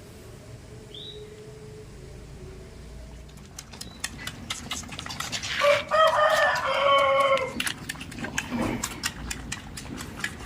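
A rooster crows once, one call of about two seconds a little past the middle, over a run of rapid clicks. A small bird gives a short high chirp about a second in.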